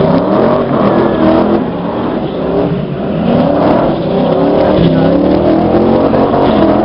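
Car engine revving hard during a burnout, held at high revs with the engine speed rising and falling several times.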